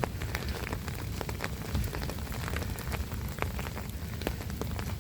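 Rain falling, with many individual raindrops striking in sharp, irregular ticks over a steady low rumble.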